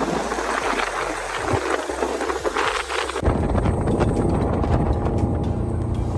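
Motorboat running at speed, with water spray hissing and wind buffeting the microphone. About three seconds in, the hiss drops away abruptly and a low wind rumble takes over.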